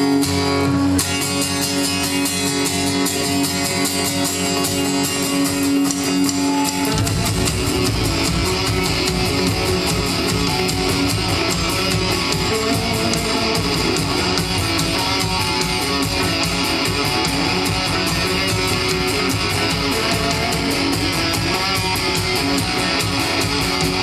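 Live rock band playing an instrumental intro led by guitar; about seven seconds in the full band comes in with a heavy low end.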